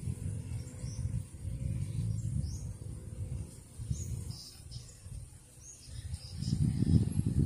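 Birds giving short, scattered chirps over a louder, uneven low rumble that fades briefly past the middle and swells again near the end.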